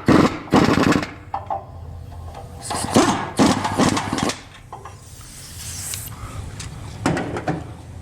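Half-inch impact gun with a 9/16 socket running in three short bursts: about a second at the start, a longer burst around three seconds in, and a brief one near the end. The bolts are the transmission-to-engine bolts of a 4L60. A steady low hum runs underneath.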